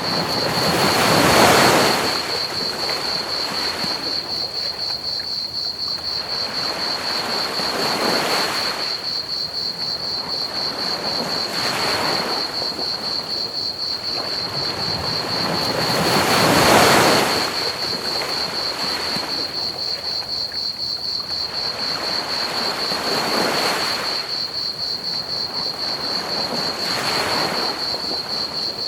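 Ocean waves washing onto a beach in slow swells, about six of them, the largest near the start and about halfway through. Beneath them run a continuous high chirping of crickets and a steady hiss of pink noise.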